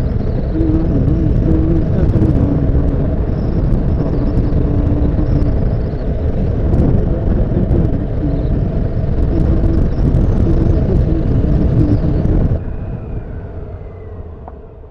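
Riding on a Honda CBF motorcycle: heavy wind rumble on an action camera's microphone, with the engine note rising and falling through the gears. About twelve and a half seconds in, the sound drops suddenly and becomes much quieter.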